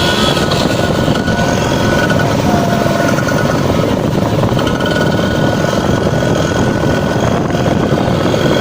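Kawasaki Ninja R's two-stroke engine running steadily through a bamboo-style racing exhaust, a loud, fast, even crackle with a steady high whistle over it.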